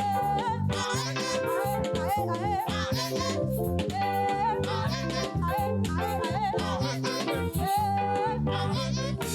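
Live praise band playing an upbeat instrumental break, with a walking bass line under a wavering lead melody.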